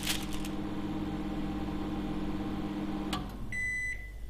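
Microwave oven running with a steady hum. It shuts off with a click a little after three seconds in, then starts its high end-of-cycle beep, signalling that the four-minute heating is done.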